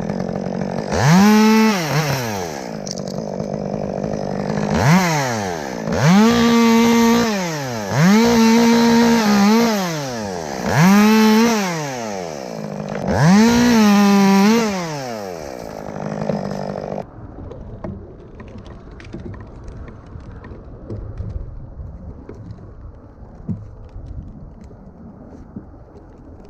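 Two-stroke chainsaw idling and revving up to full speed in about six bursts of one to two seconds each. The engine sound cuts off suddenly about two-thirds of the way through, leaving a faint low background with a few small clicks.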